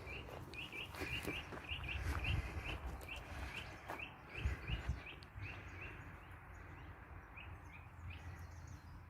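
A small songbird calling in a long, even series of short, high chirps, two or three a second, thinning out near the end, over a low outdoor rumble.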